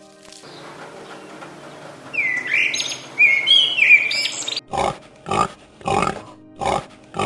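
Animal calls: high squeals gliding up and down, then a run of short, evenly repeated grunt-like calls, about one every 0.6 seconds.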